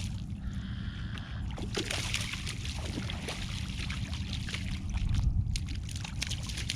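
Water sloshing and dripping around a kayak while a freshly caught ladyfish is handled, with many small clicks and taps and a steady low rumble underneath.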